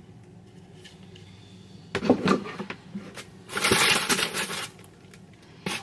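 Packaging being handled and opened by hand: crackling and crinkling about two seconds in, then a loud second-long rustle and a sharp click near the end.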